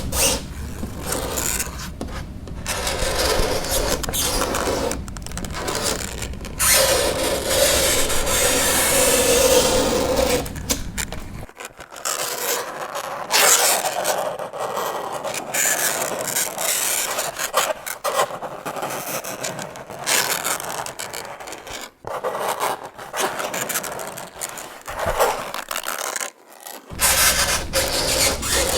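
Fingernails scraping across a chalkboard in a run of uneven strokes with brief breaks between them. One long stroke partway through carries a steady pitched tone over the grating noise.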